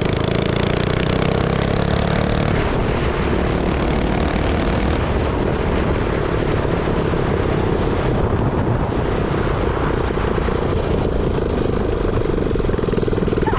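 Minibike's small single-cylinder engine running hard through a new, very loud exhaust. The engine note shifts about two and a half seconds in and again around five seconds, then holds steady.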